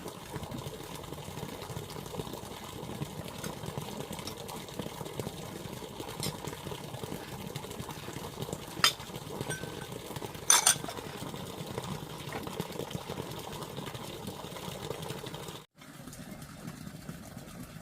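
A few sharp clinks of tableware, such as a spoon or chopsticks knocking on a bowl, over a steady rough background noise; the two loudest clinks come past the middle.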